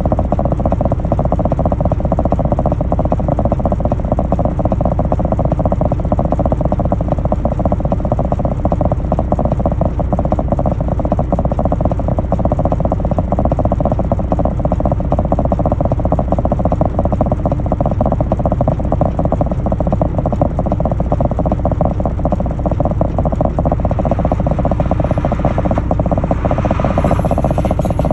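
A truck's engine running steadily, with a constant rattle over a low rumble.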